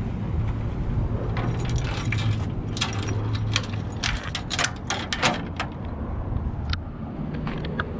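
Steel tailgate hardware on a 1957 Chevrolet 3100 stepside pickup clinking and rattling: a quick run of small metal-on-metal clicks and jingles in the middle few seconds, over a steady low hum.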